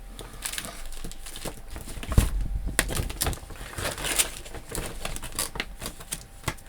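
Rustling and crinkling of stamp packets being sorted through by hand, with many small irregular clicks and a heavier thump about two seconds in.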